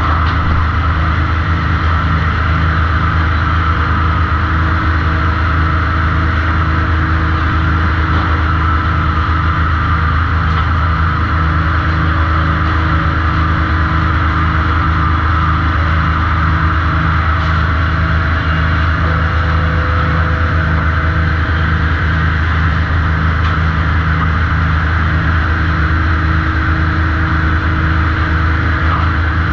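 Sawmill machinery running steadily: a loud, continuous low drone with a regular pulse and a rushing hiss above it.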